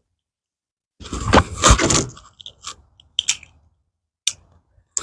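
Screen mesh being trimmed and handled on a screen-door frame: a crunchy, scraping rustle lasting about a second and a half, then a few light clicks and taps.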